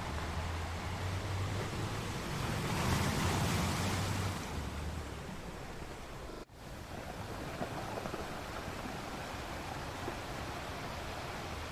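Steady rushing noise, like surf or wind. It swells for a couple of seconds about three seconds in, then eases. A sudden momentary dropout about six and a half seconds in sounds like a splice in a looped recording.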